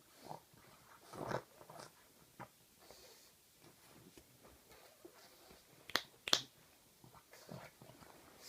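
A pug licking and mouthing bedding: scattered short wet smacks and snuffles, with two sharp clicks about six seconds in.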